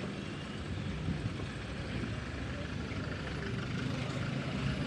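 Car driving with steady engine and road rumble, with a faint engine hum in the second half.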